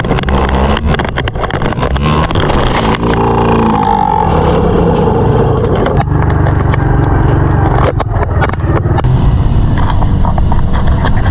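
Small dirt bike engine running under riding, with knocks and buffeting on the action camera's microphone.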